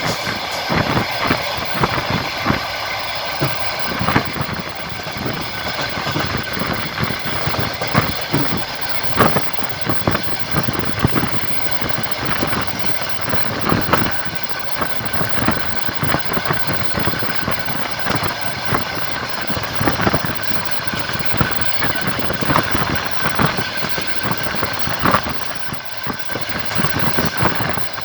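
Passenger train running along the track, heard from the carriage: a steady rumble with the wheels clattering over the rails in frequent short knocks.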